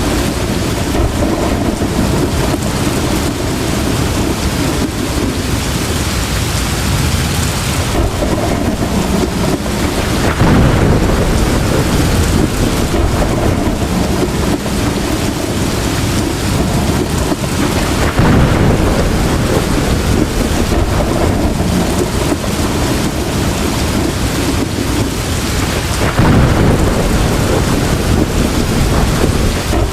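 Heavy rain pouring steadily, with thunder rumbling three times, each a deep, rolling swell.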